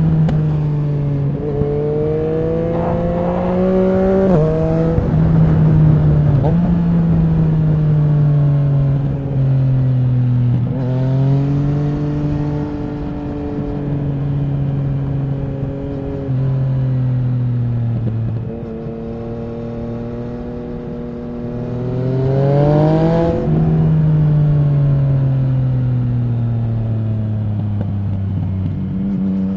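Yamaha MT-09 SP's inline-three engine through an Akrapovic racing exhaust, at riding speed: the pitch climbs under acceleration with quick drops at each upshift, falls away while slowing, and climbs hard again a little past twenty seconds in before a long fall near the end. Wind noise rumbles underneath.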